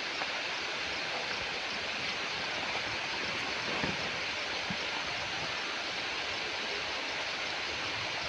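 Steady rush of river water, with a faint knock or two about four seconds in.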